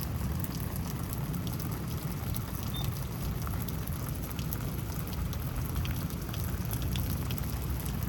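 Steady rain falling, with scattered drops ticking sharply close to the microphone.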